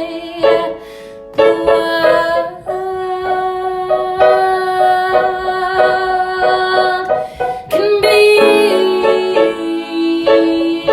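Music from a piano-played song: held chords and a melody of sustained notes, with a short lull about a second in.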